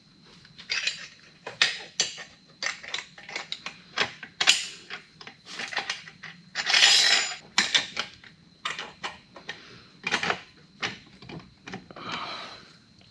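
Metal tools and exhaust parts clinking and knocking irregularly as they are handled and fitted, with a longer burst of noise about seven seconds in.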